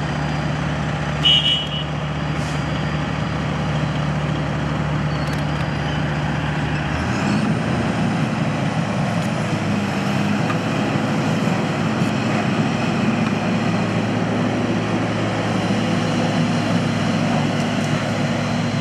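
Heavy truck engine running steadily, its note stepping up to a higher pitch about seven seconds in, with a brief high chirp about a second in.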